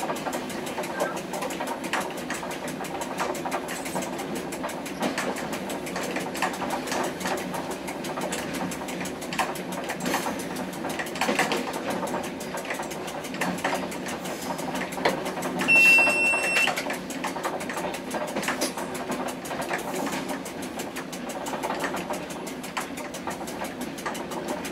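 Train running along the track, heard inside the driver's cab: a steady hum with constant rapid clicking and rattling. About 16 seconds in, a short high-pitched beep sounds.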